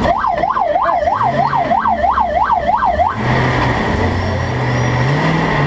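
A warbling siren, sweeping up and down about three times a second, sounds for about three seconds and cuts off. After it the monster truck's engine runs on, its pitch stepping up and down.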